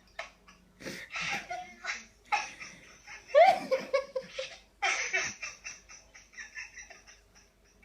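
Baby laughing in several bouts, loudest about halfway through, then a run of short quick laughs that fades away.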